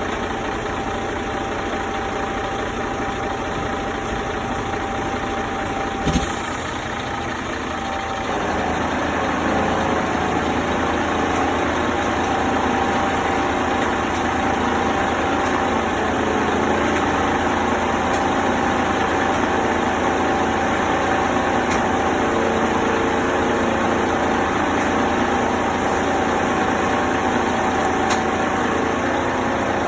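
Engine of working machinery running steadily, with a sharp knock about six seconds in. About eight seconds in the engine picks up and runs louder for the rest of the time.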